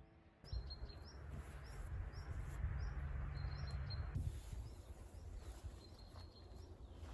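Outdoor ambience: a small bird chirping repeatedly with short high calls, over a low rumble that stops about four seconds in.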